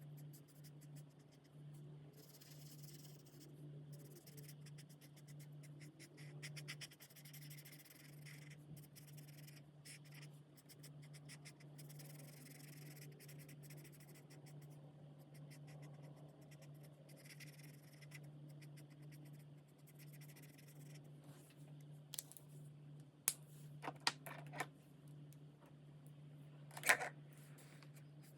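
Alcohol marker nibs scratching across coloring-book paper in repeated spells of quick back-and-forth strokes, over a steady low hum. Near the end come a few sharp clicks.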